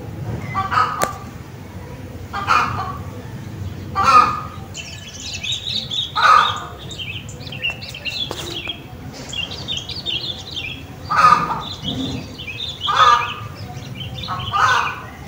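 Outdoor garden ambience of birds. A larger bird gives short, loud calls every one to two seconds, about seven in all. Smaller birds twitter higher and faster in the middle, where the loud calls pause for a few seconds.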